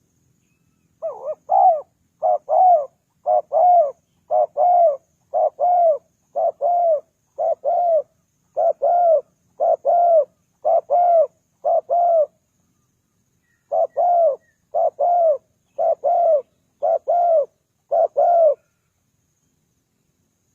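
Spotted dove cooing, a long run of quick coos in close pairs, with a short break about two-thirds of the way through.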